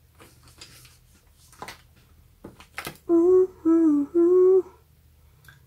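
A woman humming three short held notes, a little over a second in all, near the end. Before them come a few faint clicks and light rustling.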